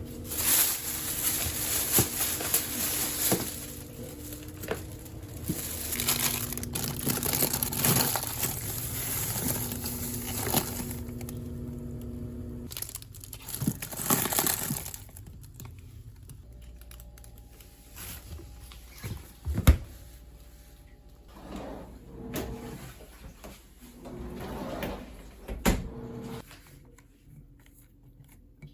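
Household handling noises: rustling and crinkling with scattered clicks and knocks, the sharpest knock about twenty seconds in.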